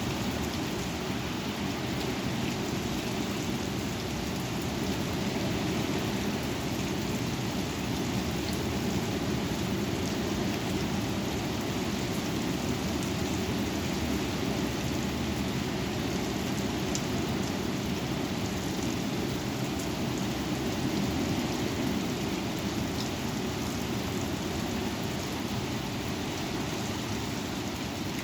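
Steady rush of wind and rain in a thunderstorm, heaviest in the low range, with scattered light ticks of raindrops hitting a surface.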